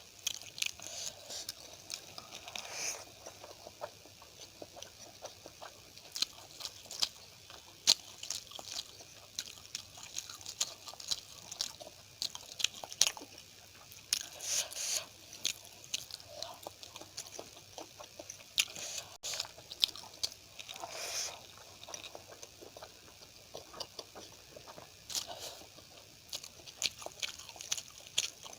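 Close-up chewing and biting of food, with many small irregular mouth clicks and a few softer, longer mouth sounds.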